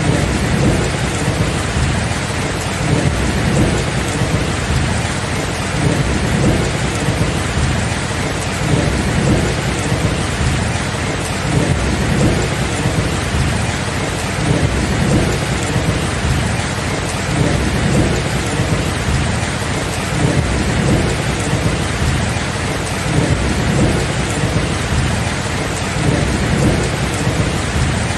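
Steady heavy rain with thunder rumbling low underneath, swelling and fading again and again.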